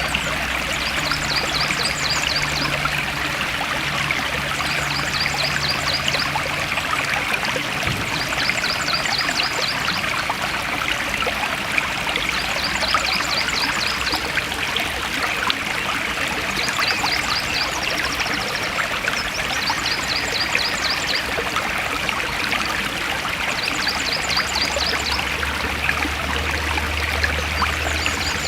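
A forest stream flowing and trickling steadily. Over the water, a short, rapid trill of high chirps repeats every three to four seconds.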